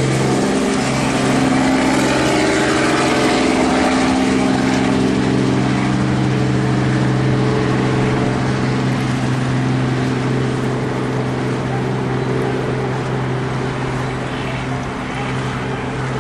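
Helicopter engine and rotor running at a steady pitch: a loud, even drone with a strong low hum, easing slightly near the end.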